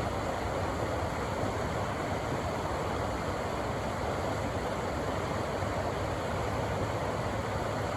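River water rushing steadily through a rocky canyon: an even, unbroken roar of whitewater.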